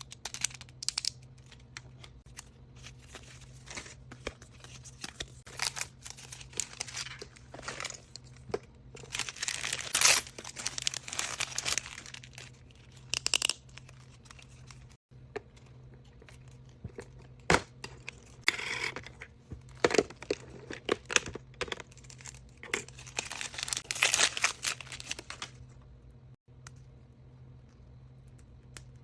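Wrapping paper on surprise toys being torn and crinkled by hand in irregular bursts of crackling. It dies down about three and a half seconds before the end.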